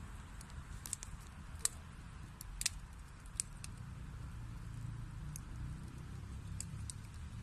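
Wood fire burning in a fireplace: a steady low rumble of the flames with scattered sharp crackles and pops from the burning wood, the loudest about one and a half and two and a half seconds in.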